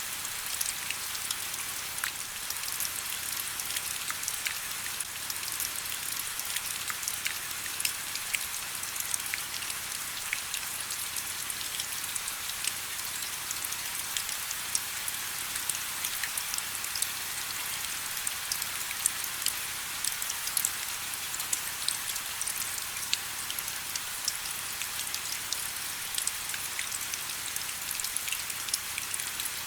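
Steady rain: an even hiss with many separate drops ticking sharply throughout, its sound sitting mostly in the upper range with little low rumble.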